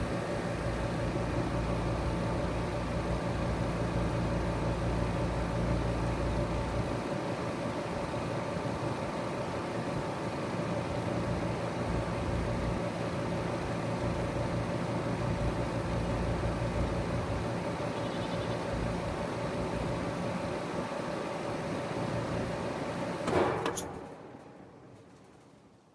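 Trane XR14 heat pump outdoor unit running in cooling mode, a steady hum with a clear tone in it, its deepest part dropping away about seven seconds in. Near the end a loud clunk as the unit is shut off, and the hum winds down to quiet as the fan coasts to a stop.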